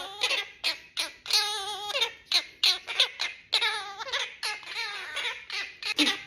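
Pet bird vocalizing: a quick run of short, wavering calls, with a longer warbling call about a second and a half in.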